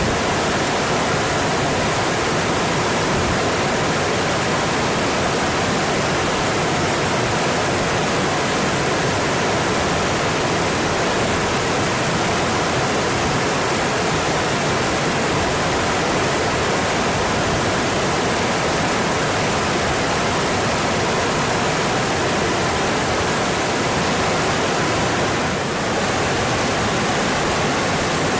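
Mountain stream rushing over its rocky bed: a steady, even wash of water noise.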